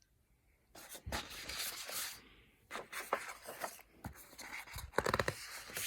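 Paper handling: book pages and cover rustling and scraping, broken by a few light knocks, starting about a second in.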